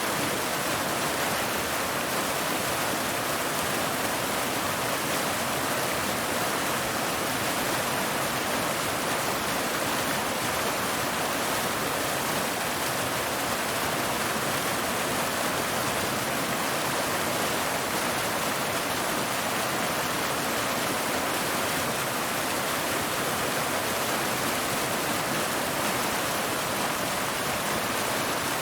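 Waterfall water cascading over rocks: a steady, unbroken rushing.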